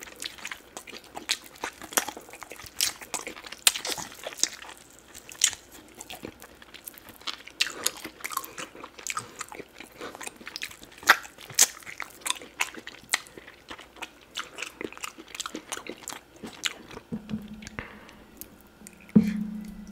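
Close-miked eating sounds of a man gnawing meat off an oxtail bone: many sharp clicks and smacks of biting and chewing. Near the end a low steady hum comes in and there is a single loud thump.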